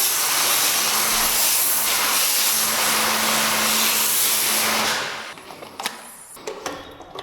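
Steady, loud hiss of a high-pressure sprayer used in car detailing, cutting off about five seconds in; a few light clicks and knocks follow.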